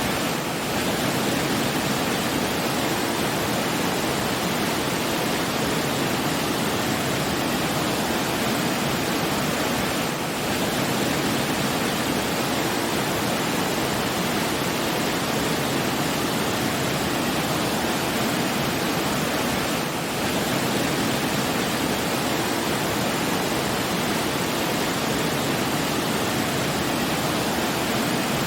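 Steady rushing water, like a waterfall or fast stream: an even, unbroken wash of noise with a brief slight dip in level about every ten seconds.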